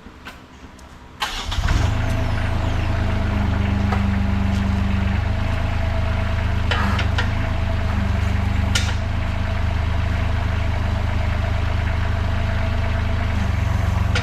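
Mini skid steer engine starting about a second in and then running steadily, with a couple of brief knocks partway through.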